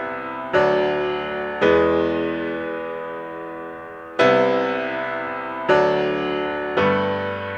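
Slow keyboard music: sustained piano-like chords, each struck and left to ring and fade, five new ones in turn.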